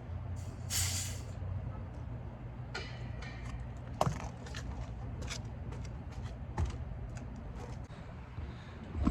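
A short, loud burst of hissing gas about a second in, with a fainter hiss a couple of seconds later, over a steady low machine hum. Scattered clicks and knocks of tools on metal.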